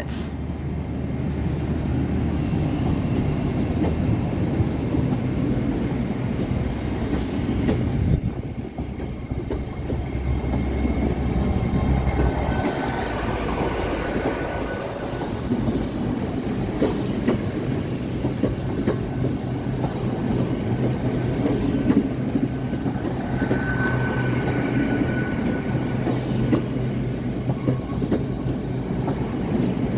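GWR Class 800 bi-mode train running slowly past on its underfloor diesel engines: a steady low engine hum with occasional clicks from the wheels, and a faint high whine in the middle and again about three-quarters through.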